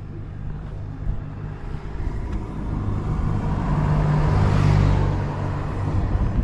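Kawasaki ZRX400 inline-four running through a Moriwaki ZERO titanium full exhaust. The note swells louder in the middle, as with a gentle blip of the throttle, then eases back.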